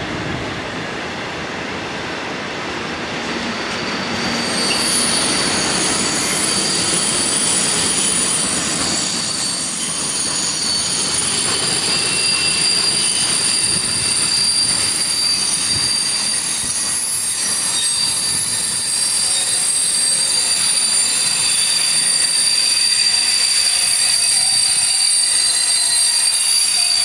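Freight train of loaded, covered steel-coil wagons rolling past on the rails, with steady high-pitched wheel squeal that sets in about four seconds in and holds over the rumble of the wheels.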